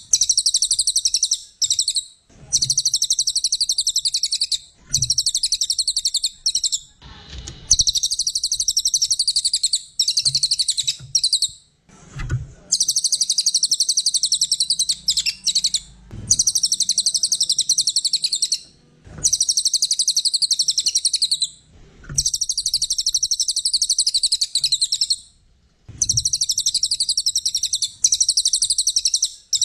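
Cililin songbird singing in gacor form, high, fast trilled phrases of one to three seconds each, about ten of them, broken by short pauses.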